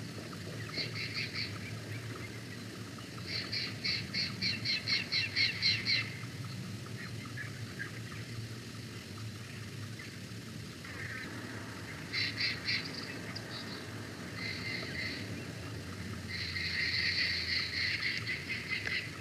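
A bird calling in several bouts of rapid, evenly repeated high notes, each bout lasting one to three seconds, over steady low background noise.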